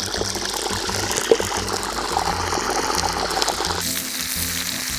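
Background music over a steady rushing hiss. About four seconds in, the hiss turns into a brighter, higher sizzle as meat steaks go into hot oil in a cast-iron cauldron, with one short knock earlier.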